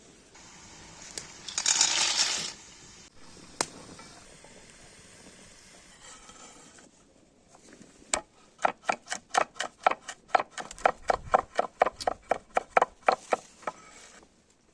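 A cooking utensil knocking in a quick, even run of about four or five strokes a second for several seconds. Each stroke rings slightly. Earlier there is a short, loud scraping hiss about two seconds in.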